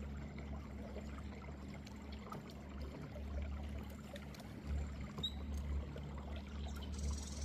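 Wind rumbling on the microphone over water splashing and lapping around a small boat, with a faint steady low hum underneath.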